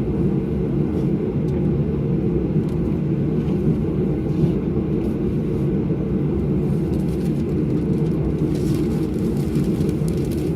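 Steady low rumble inside a Boeing 737 cabin standing on the ground during de-icing. About eight and a half seconds in, a hiss of de-icing spray against the fuselage grows louder.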